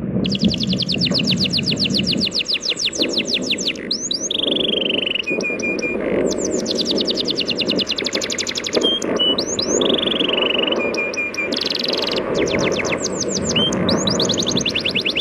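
A songbird singing fast trills of rapidly repeated falling notes broken by longer falling whistles, starting suddenly just after the start, over the steady wash of sea waves.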